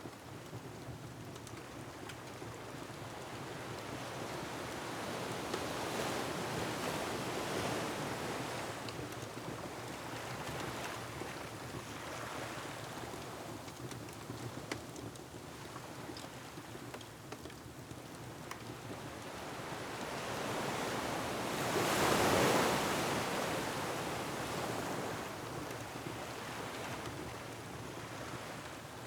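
Ocean surf washing against a rocky shore, a steady rushing that swells twice as waves surge in. The bigger surge comes about three quarters of the way through. Faint scattered ticks sit under it.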